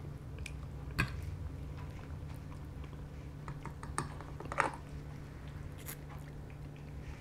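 Close-up eating sounds of pasta being chewed, with a few sharp clicks of a metal fork against a ceramic bowl, the clearest about a second in and again near four seconds, over a steady low hum.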